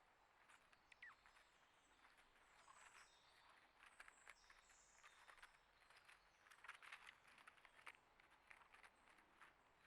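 Faint outdoor ambience: small birds give high, short chirps, with a scatter of soft clicks and taps.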